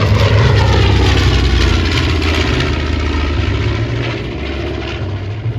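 B-25 Mitchell bomber's twin Wright R-2600 radial engines running loud as it makes a flyby, the pitch falling as it passes and the sound fading in the second half.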